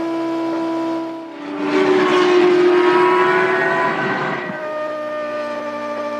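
1998 Formula One cars' high-revving racing engines. One engine holds a steady pitch; then, about one and a half seconds in, a louder car sweeps through with its note sliding slightly lower for a few seconds, before a steady engine note returns.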